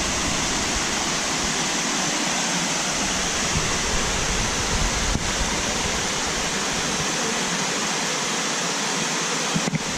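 Waterfall water cascading in a steady, unbroken rush.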